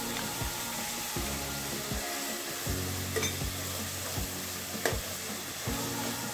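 Onions and tomatoes sizzling in coconut oil in a steel pot, with ginger-garlic paste just added. A metal spatula stirs them, scraping and tapping against the pot at short intervals.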